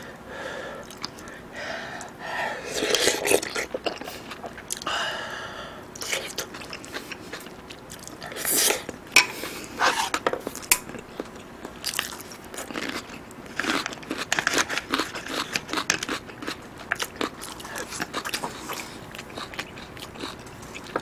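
Close-miked eating sounds: chewing soft tofu and other food, with many wet smacks and sharp mouth clicks and a few longer wet sucking sounds.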